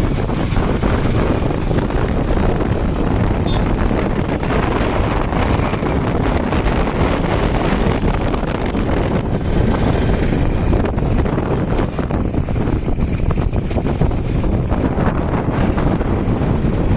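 Wind rushing loudly and evenly over the microphone of a moving motorcycle, with the vehicle's running noise underneath.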